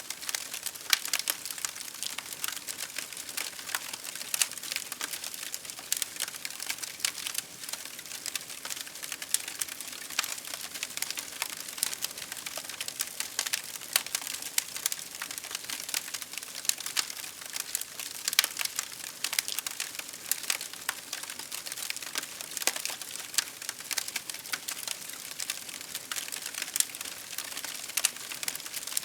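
Wood fire crackling steadily, a dense run of sharp, irregular pops and snaps over a soft hiss.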